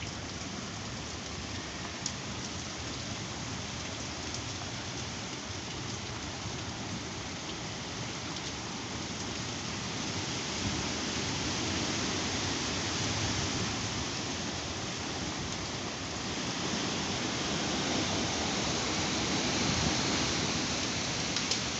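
Heavy rain pouring steadily during a severe thunderstorm, with a few sharp ticks of drops or hail striking a surface. The downpour grows louder about halfway through and again near the end.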